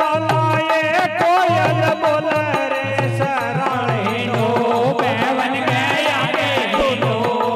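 Rajasthani devotional bhajan music: an ornamented, wavering melody over a steady hand-drum beat.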